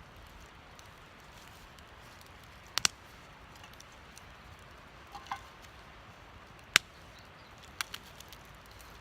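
Wood fire burning in a small stove, with a few scattered sharp pops and cracks from the burning wood; the loudest pop comes about two-thirds of the way through.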